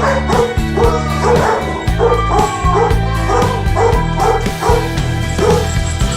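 Music with a steady beat and sustained bass, with a dog's short yips and barks repeating about twice a second over it.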